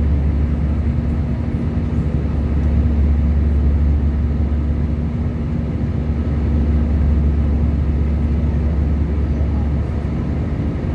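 Airliner engines running steadily during the takeoff: a loud, deep, even rumble with a steady hum above it, with no rise or fall.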